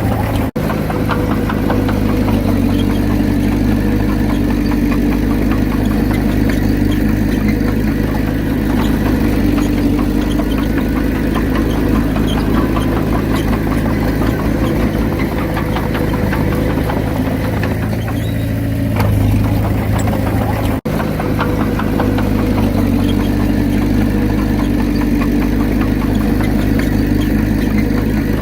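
Diesel engine of a Komatsu D31P bulldozer running steadily while working, its tone shifting about two-thirds of the way through. The sound cuts out for an instant twice.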